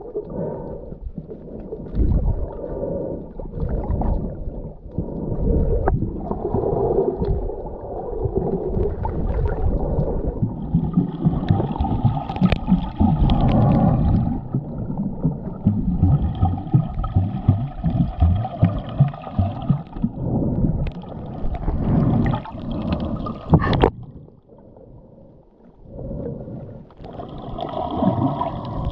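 Scuba diver's breathing heard underwater: regulator breaths and gurgling exhaust bubbles in repeated bursts a few seconds long, over a low muffled rumble. It briefly goes quieter about three quarters of the way through.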